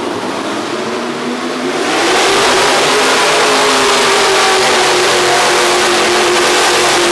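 A V8 mini rod pulling tractor's engine runs hard. About two seconds in it revs up and gets louder, then holds at high revs with a slight rise and fall in pitch, as under full load on a pull.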